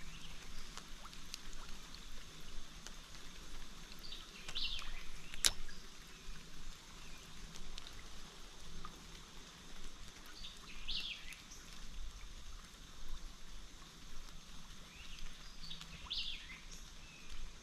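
A bird calling in short bursts three times, about every six seconds, over a steady hiss of flowing creek water. A single sharp click about five and a half seconds in.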